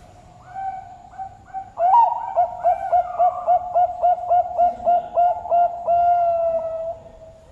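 Zebra dove (perkutut) singing its cooing song: a few soft opening coos, then a fast, even run of about a dozen rolling notes, ending on one long held note.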